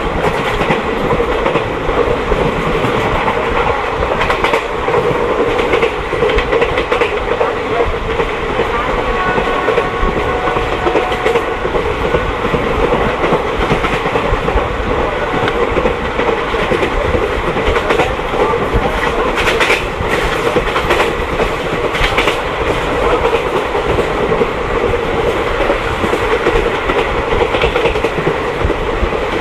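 Passenger train running steadily along the track: a continuous loud rumble of wheels and carriage, with scattered clicks from the rails.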